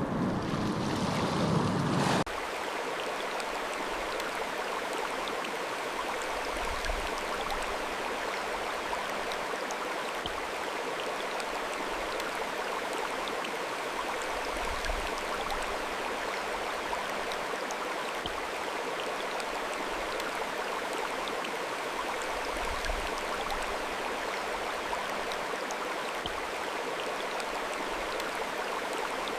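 A louder, deeper wash of surf and wind cuts off abruptly about two seconds in. It gives way to the steady rush of a flowing stream, an even splashing hiss with fine scattered droplet ticks.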